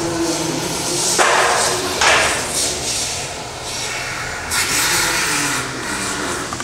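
Polyurethane spray-foam gun hissing as expanding foam is dispensed, in a few bursts of about a second each.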